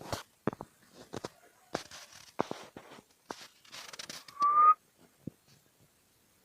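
A string of sharp taps and clicks, like a bird pecking at a hard surface, then one short rising whistle-like note about four and a half seconds in, the loudest sound.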